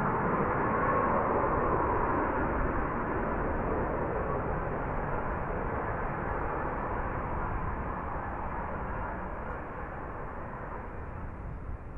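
F-35B Lightning's jet engine running, a broad rushing noise that slowly fades away.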